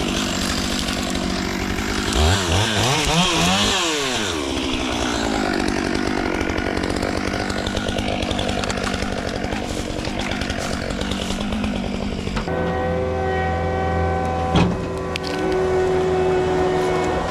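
Gas chainsaw running under load, cutting storm-downed wood, its revs swinging up and down several times early on. About twelve seconds in the sound changes abruptly to a steadier engine drone with a low hum, and a single sharp knock comes a couple of seconds later.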